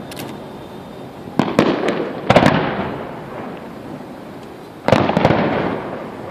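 Aerial fireworks shells bursting: three loud bangs, about a second and a half in, near two and a half seconds and near five seconds, each followed by crackling that dies away over a second or so.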